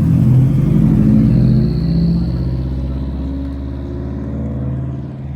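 A car engine and exhaust running loud and close at low revs, with a deep, steady note that eases off a little after about two seconds.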